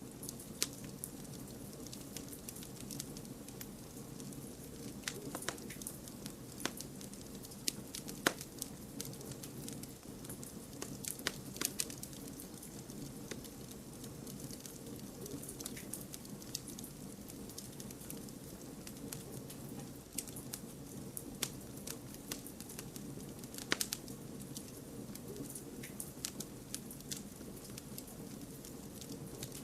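Wood campfire burning: irregular sharp crackles and pops over a steady low rush of the flames, a few pops standing out louder.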